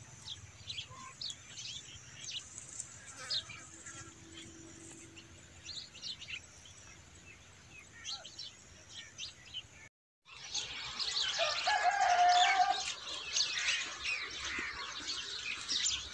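Small birds chirping, sparse short high chirps at first; after a brief cut about ten seconds in, a denser, louder chorus of chirping, with a lower held call a couple of seconds later.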